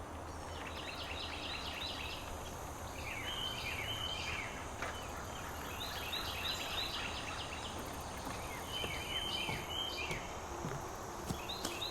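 A songbird singing short phrases of quick notes, repeated every few seconds, over a steady high-pitched insect drone.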